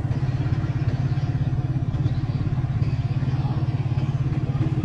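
Small motorcycle engine running steadily at low road speed, a fast even pulsing with no change in pace.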